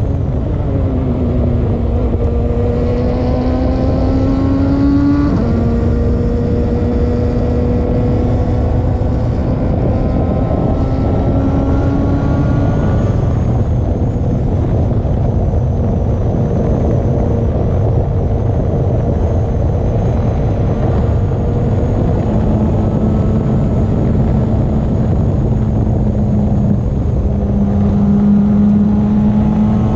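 Radical race car engine pulling hard at speed, heard from the passenger seat over loud wind and road noise. The revs climb and drop sharply at an upshift about five seconds in, then hold fairly steady at high revs.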